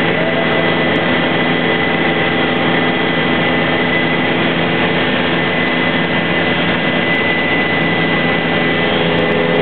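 Helicopter in flight heard from inside the cabin: a loud, steady engine and rotor din with a constant high whine over it.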